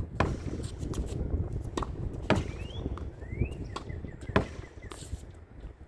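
A regular tennis ball being hit against a practice wall: sharp pops of racket strikes and wall rebounds about every two seconds. Two short rising squeaks come in the middle.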